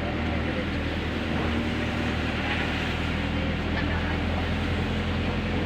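Steady engine hum and road noise of a moving car, heard from inside.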